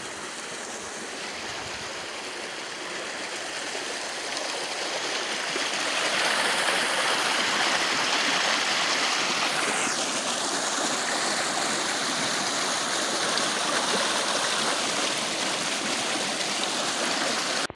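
River water rushing steadily, swelling louder a few seconds in and then holding, before cutting off abruptly near the end.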